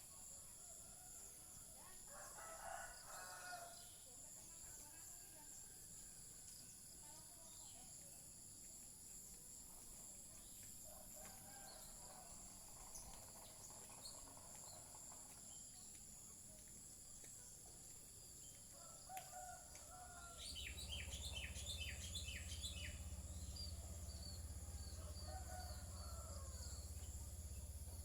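Faint rural morning birdsong: a distant rooster crowing and small wild birds chirping, including a quick run of high chirps about two-thirds in, over a steady high insect drone. A low rumble joins about two-thirds of the way through.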